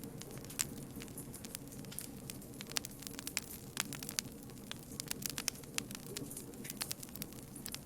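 Campfire burning, with irregular sharp crackles and pops from the burning wood over a low steady rumble of the flames.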